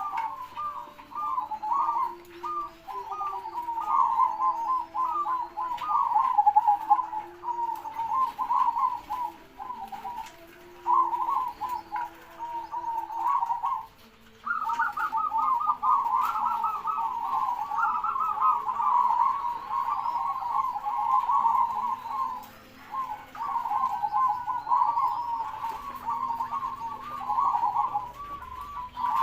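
Zebra doves (perkutut) singing: rapid runs of short staccato cooing notes repeated without let-up. There are brief pauses, the longest just before the halfway point, and fainter chirps from small birds sound higher above.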